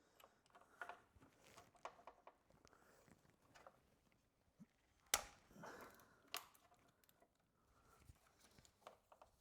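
Faint clicks and scrapes of a hex key working an Allen bolt on a car's AC compressor, with a sharp metallic click about five seconds in and another about a second later.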